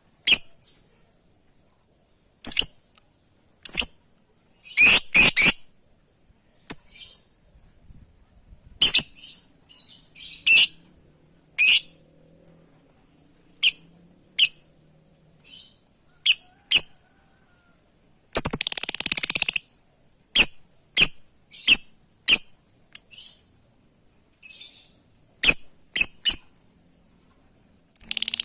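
Lovebird giving short, sharp, high-pitched calls at irregular intervals, with one longer harsh screech about eighteen seconds in.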